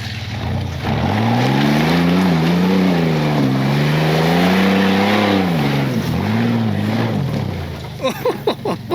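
Truck engine revving in long rising and falling waves, then dropping back about six seconds in with two short blips of throttle. A few short sharp sounds come near the end.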